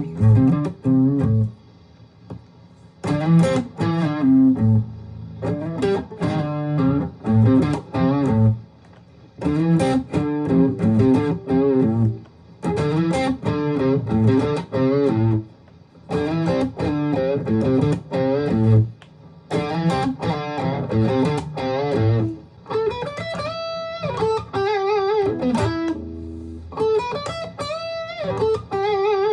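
Aria STG series electric guitar played in short phrases of picked single notes and chords with brief pauses between them. Near the end come longer held notes with vibrato.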